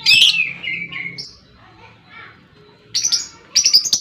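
Lovebird calling: a call falling in pitch over about the first second, a short lull, then a rapid run of short sharp chirps near the end.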